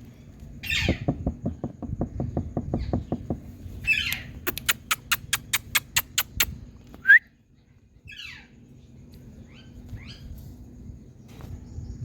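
Indian green parrot calling: a few short harsh calls, then a quick run of sharp clicks or taps about five a second, a single loud shrill call about seven seconds in, and some faint short chirps after it.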